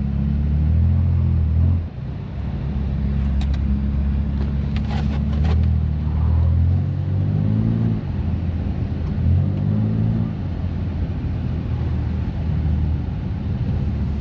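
BMW F80 M3's twin-turbo inline-six running through catless downpipes and an open valved exhaust, its note rising and falling repeatedly with the throttle while driving. The sound dips sharply about two seconds in.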